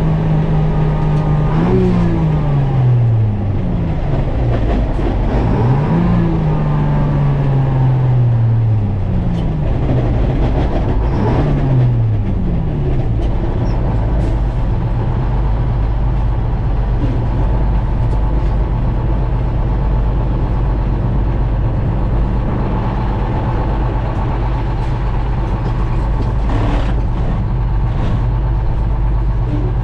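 Detroit Diesel two-stroke engine of a GMC Crackerbox semi truck pulling under load. Its pitch drops and climbs again several times in the first dozen seconds as it shifts up through the gears, then it runs at a steady pitch.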